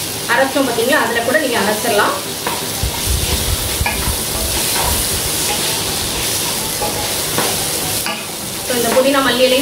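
Mushrooms, onions and fresh mint and coriander leaves sizzling as they are sautéed and stirred with a spatula in a non-stick pan.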